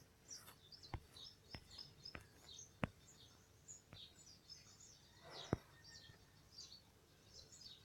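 Near silence, with faint bird chirps in the background and a few soft, scattered clicks.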